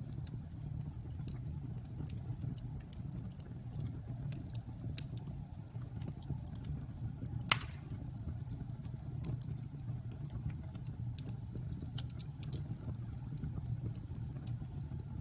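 Wood bonfire burning: a steady low rumble of flame with scattered crackles, and one loud pop about halfway through.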